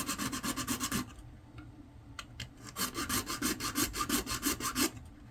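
Rapid back-and-forth rasping strokes of a hand tool cutting into an SD card reader, about ten strokes a second. The strokes come in two runs: the first stops about a second in, and the second runs from near three seconds to near five.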